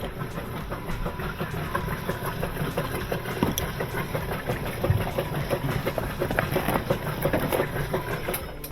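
A motor running steadily with a dense rattle of small clicks over a low hum.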